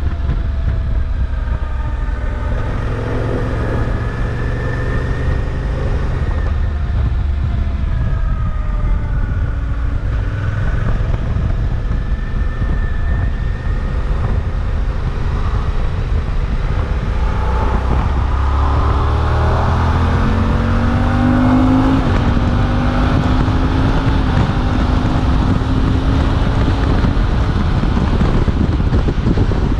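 Suzuki V-Strom 800DE's 776 cc parallel-twin engine running under way, heard from the bike with wind rush on the microphone. The engine note wavers early on, then rises steadily as the bike accelerates about two-thirds of the way through, with the wind noise growing louder after that.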